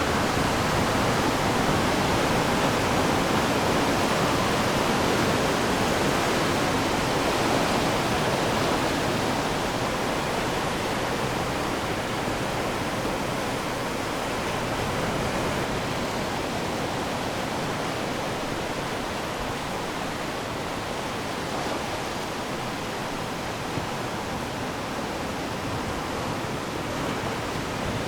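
Ocean surf on the shore, a steady, unbroken wash of waves that eases slightly after the first third.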